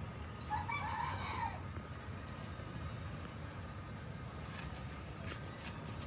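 A short bird call starts about half a second in and lasts about a second, over a steady low background rumble. Several faint sharp ticks come near the end.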